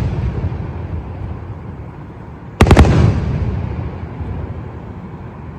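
Fireworks going off: the rumble of one burst fading, then a quick cluster of sharp bangs about two and a half seconds in, followed by a long rolling rumble that slowly dies away.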